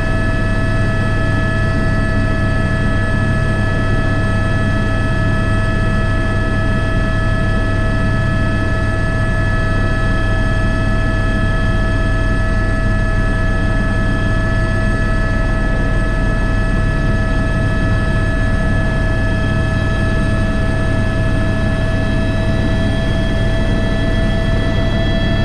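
Airbus H125 (AS350 B3) helicopter heard from inside the cockpit, its single turboshaft engine and main rotor running steadily in flight: a low rotor drone under a high turbine and gearbox whine. The whine edges up slightly in pitch near the end.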